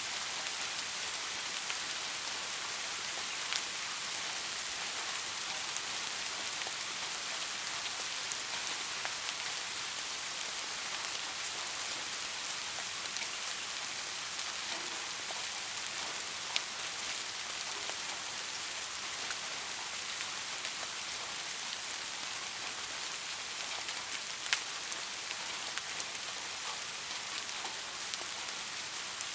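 Steady rain falling, an even hiss with scattered sharper drips landing nearby, two of them louder, about 16 and 24 seconds in.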